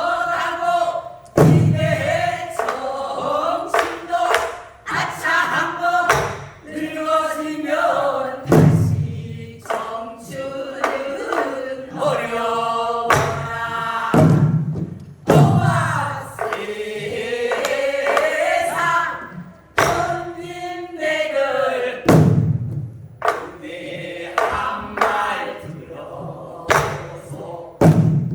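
A group singing a Korean traditional song together in byeongchang style while accompanying themselves on the buk barrel drum. Deep drum strokes and sharp rim knocks come every few seconds under the sustained voices.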